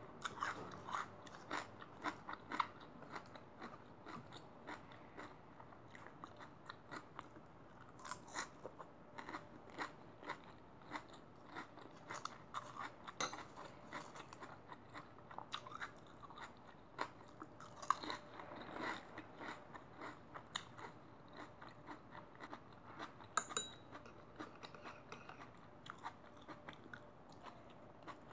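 Close-up chewing of fresh raw salad vegetables such as lettuce and cucumber: irregular crisp crunches and wet chewing clicks.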